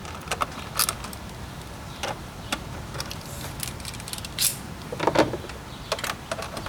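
Scattered clicks and light knocks of a hand tool working loose the bolts on a car's engine air filter housing lid, with a few louder knocks near the middle and end.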